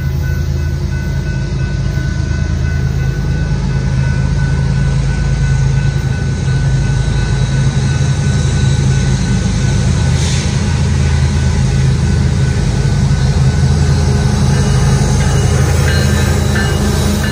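BNSF freight train running by, with a steady low diesel locomotive rumble and a few faint higher steady tones.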